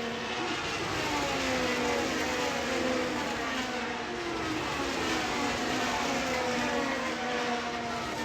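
Racing car engines at high revs, several at once, their pitch falling again and again as cars go by.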